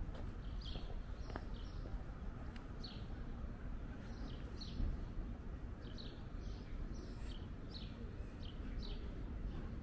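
Small birds chirping with short, sharp calls, often in pairs and at irregular intervals, over a steady low background rumble of the open city.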